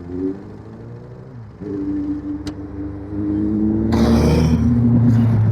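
Motorcycle engine accelerating: the pitch climbs, drops at a gear change about a second and a half in, then climbs again and grows louder, with a short rush of noise about four seconds in.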